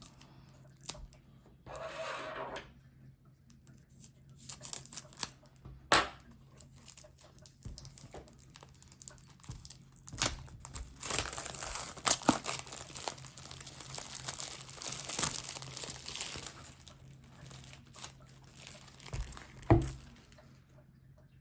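Plastic wrap being torn and crumpled off a sealed deck of tarot cards: scattered sharp clicks and taps, then a long stretch of dense crinkling about halfway through.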